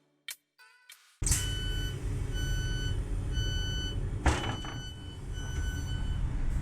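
Steady low rumble of a vehicle, with an electronic warning beep repeating about once a second, about five times. There is a short rush of noise about four seconds in.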